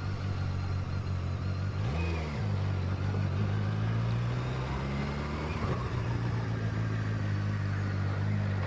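Motorcycle engine running steadily at low revs, with a brief rise and fall in pitch about two seconds in.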